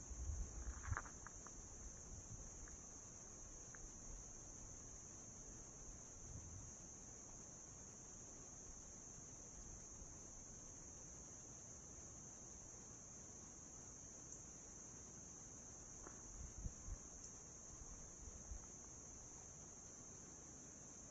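Steady chorus of insects such as crickets, a continuous high-pitched trill that never lets up. A few faint low thumps are heard in the last few seconds.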